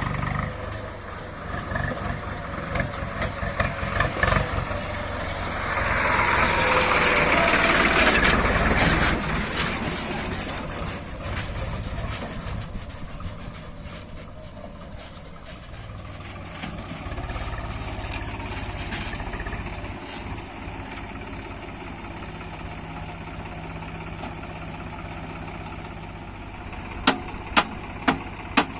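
Diesel engine of a JCB 3DX backhoe loader working a load of mud, rising to a loud rushing swell for a few seconds about a fifth of the way in, then settling to a steadier run. Near the end a string of sharp ticks comes about twice a second.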